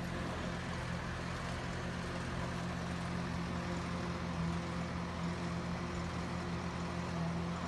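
A steady engine hum with a constant low drone, over an even hiss of outdoor background noise.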